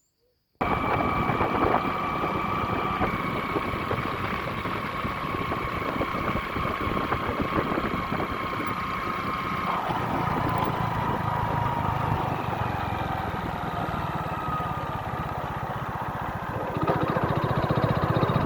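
A motor running steadily after starting suddenly, with a whine whose pitch steps down a few times and slowly falls in the middle; it gets louder near the end.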